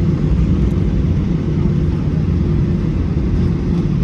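Steady low rumble inside the cabin of an Airbus A320-214 with CFM56 engines, with a faint steady hum running through it.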